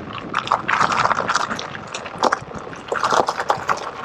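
Electric unicycle tyres rolling through wet mud and puddles on a trail, with irregular crackling and splashing.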